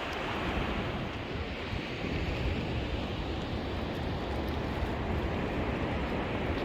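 Ocean surf washing onto the beach in a steady wash, with wind rumbling on the microphone.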